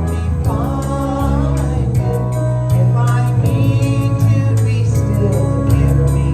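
Worship band playing a song with a steady beat, a woman's singing voice over bass and drums.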